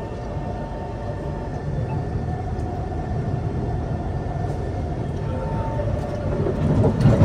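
Kawasaki C151 metro train running between stations: a steady rumble of wheels on rail with a faint motor whine. It grows louder towards the end, with a few sharp knocks.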